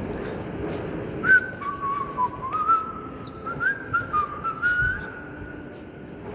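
A person whistling a short tune, a string of held notes stepping up and down, starting about a second in, with faint footsteps on the escalator steps beneath it.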